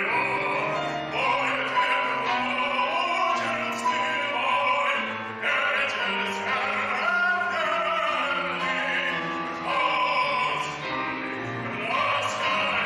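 A song sung in long, drawn-out notes that waver in pitch.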